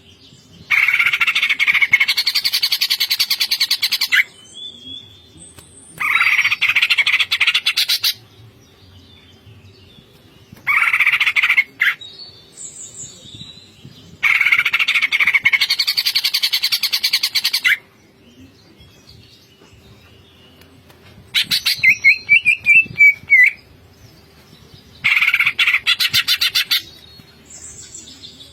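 Cucak ijo (green leafbird) singing in its rapid stuttering 'ngentrok' style: loud bursts of fast repeated notes, each two to three seconds long, about six times with short pauses between. Thin single whistles fall in some of the pauses.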